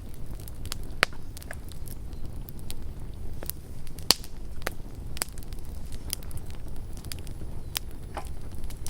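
Campfire crackling: irregular sharp pops and snaps over a low steady rumble, the loudest pops about a second in and about four seconds in.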